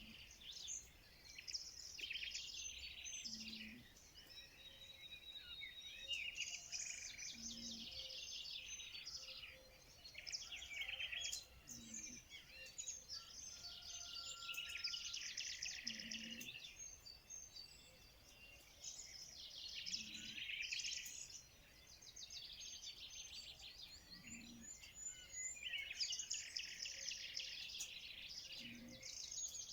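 Several songbirds singing in overlapping bursts of rapid chirps and trills, with a faint short low note repeating about every four seconds.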